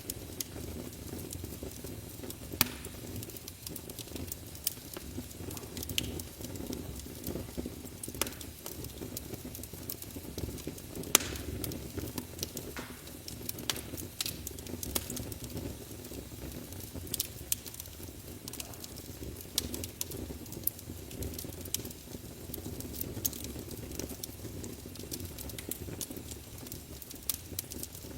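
Fire in a fireplace crackling: irregular sharp pops over a steady low rush of the flames, the loudest pop about eleven seconds in.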